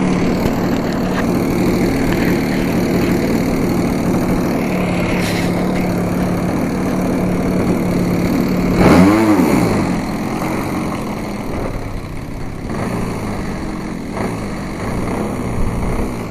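Syssa 30cc single-cylinder two-stroke gas engine of a large RC aerobatic plane, fitted with a tuned exhaust pipe, running at a steady speed; about nine seconds in it revs up sharply and drops back, the loudest moment, then runs on more quietly with a shifting pitch.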